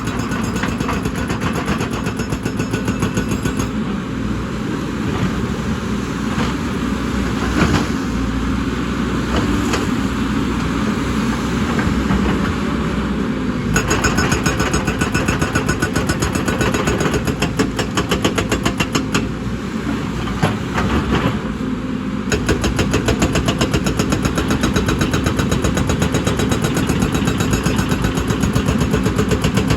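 Excavator diesel engine running hard with a fast, even knocking rattle, changing in strength a few times.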